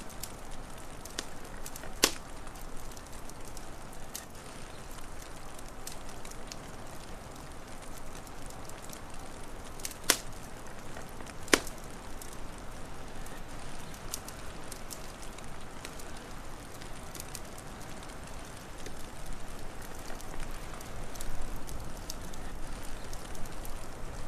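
Wood fire crackling, with scattered sharp pops over a steady hiss; three louder snaps come about two seconds in and twice around ten to eleven seconds in. A low rumble builds near the end.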